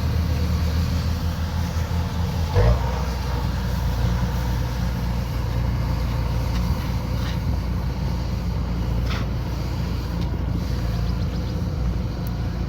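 Kubota combine harvester engine running steadily with a low hum, with a single loud knock about two and a half seconds in.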